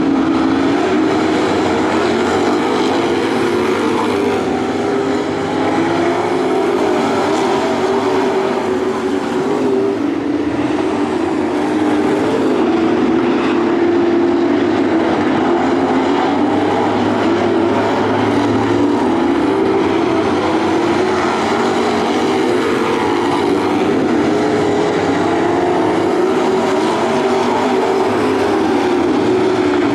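A field of dirt-track racing trucks running flat out around the oval, their engines droning together in a steady, loud din that wavers up and down in pitch as they go through the turns and down the straights.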